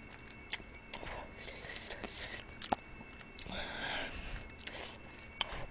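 Close-miked eating sounds of spicy broth chicken feet: scattered soft wet smacks and clicks of chewing and sucking meat off the small bones, with a short breathy sound a little past halfway.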